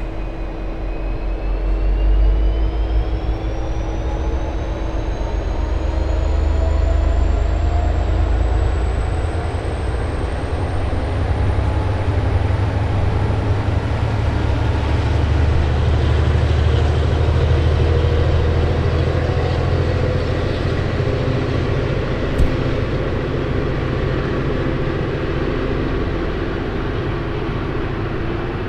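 V/Line passenger train hauled by an N class diesel-electric locomotive, accelerating away from the platform. The diesel rumbles under load, and a high whine climbs steadily in pitch as the train gathers speed. There is one sharp click about three-quarters of the way through.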